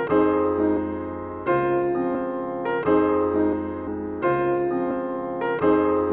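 Background music: electric piano playing sustained chords, a new chord struck about every second and a half.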